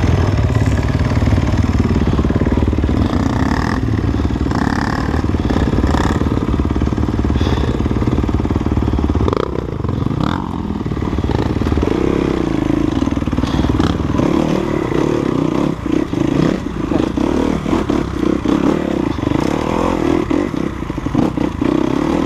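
Enduro dirt bike engine running and revving unevenly while being ridden over rough trail, with scattered knocks and rattles.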